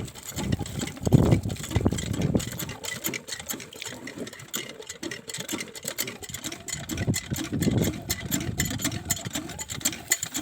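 Small diesel engine of a water pump set running with a rapid, even knocking beat, its loudness swelling and easing a little.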